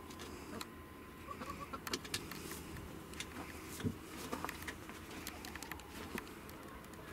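Faint soft bird cooing, with scattered light ticks and rustles.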